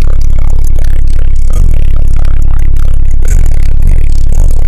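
Bass-heavy music played very loud through a car audio system, with heavy subwoofer bass and a steady beat.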